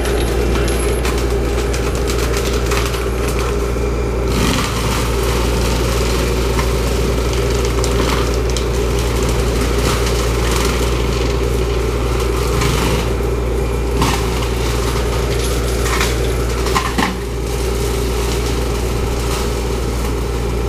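Bobcat forestry cutter running steadily, its engine and spinning cutter head droning, with several sharp cracks and snaps spread through as it chews through brush and small trees.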